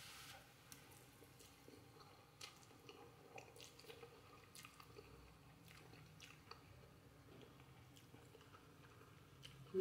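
Faint chewing of instant noodles: soft, wet mouth clicks scattered at irregular intervals.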